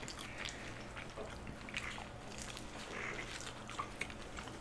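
Close-miked eating sounds of pizza being chewed: soft wet mouth smacks and small irregular clicks, with short breaths between them.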